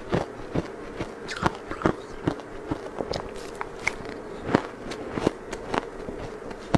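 Close-miked crunching and chewing of hard frozen food, with sharp, crisp cracks at an uneven pace of about one or two a second.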